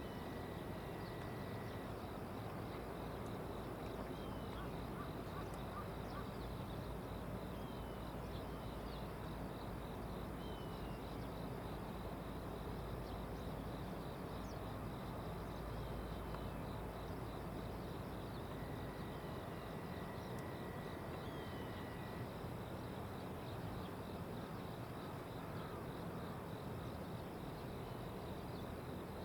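Outdoor ambience of steady background hiss with insects trilling continuously, a steady high tone twice, and a few short, downward-slurred bird chirps scattered through it.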